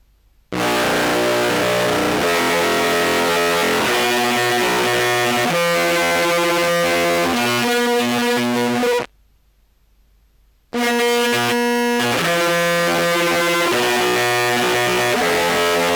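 Contrabass clarinet through a Dream Machine pedal in random mode and a Jackson Audio Modular Fuzz's Fuzz Page Mark II module: heavily fuzzed, buzzy notes that change pitch in steps. It starts abruptly, cuts off suddenly about nine seconds in and comes back nearly two seconds later.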